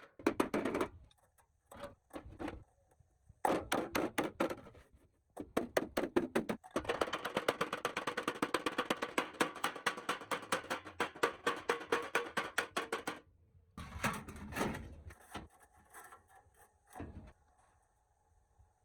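Hand-tool work on a part: several runs of rapid, evenly spaced strokes, about eight to ten a second. The longest run lasts about six seconds in the middle.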